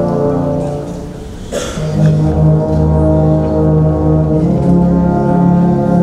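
Brass-heavy band music of sustained, held chords in a large hall, with a brief break about a second and a half in before long low notes come back in.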